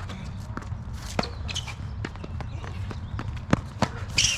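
Tennis ball knocks on a hard court: sharp single strikes and bounces of the ball, with footsteps, over a steady low rumble.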